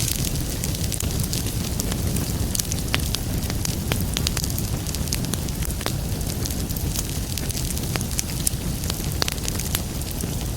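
Wood fire crackling in a fireplace: a steady low rumble of the flames with many irregular sharp pops and snaps.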